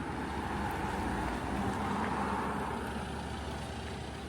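A motor vehicle passing on a street, its noise swelling to a peak about two seconds in and then fading.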